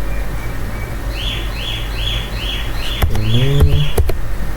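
A bird chirping a run of about seven short, evenly spaced notes, over a steady low hum, with a few sharp clicks near the end.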